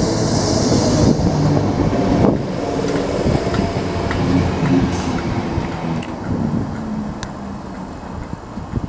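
Passenger train running past at the platform, a steady mechanical rumble with some held tones that fades as it moves away.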